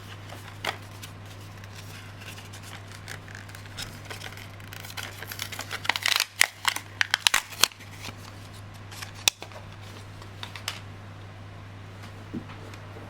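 Close-miked handling of small plastic parts and packaging during a small repair: scattered clicks and crinkles, busiest in the middle, over a steady low hum.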